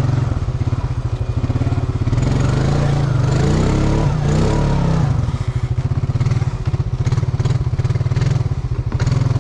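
Off-road vehicle's engine running under load as it is driven, revved up and back down about twice near the middle.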